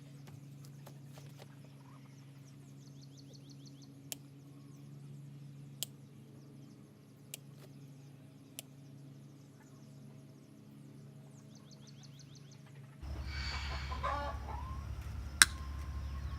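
Poultry calling and clucking faintly over a steady low hum, with a few sharp knocks. About 13 seconds in the sound gets louder with wavering squealing cries, like a pig that has been shocked by the fence or bitten, and one loud knock.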